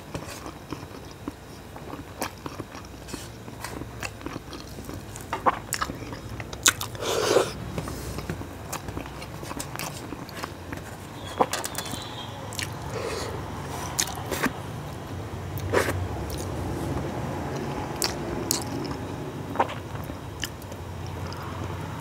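Close-up eating sounds: a person chewing rice mixed with fried bitter gourd, potato and onion, with wet mouth noises and irregular sharp clicks. His fingers also work rice on a steel plate.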